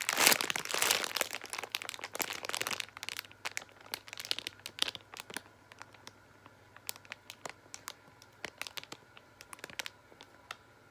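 Plastic packaging crinkling as a foam squishy is squeezed inside it: a dense crinkle for the first few seconds, then scattered faint crackles and ticks.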